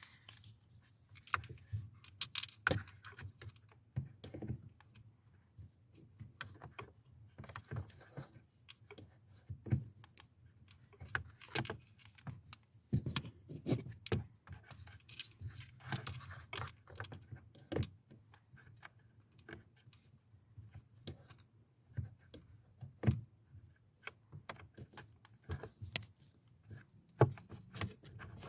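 Irregular clicks, taps and rattles of hand tools and small parts being handled, with a few scrapes, over a faint steady low hum.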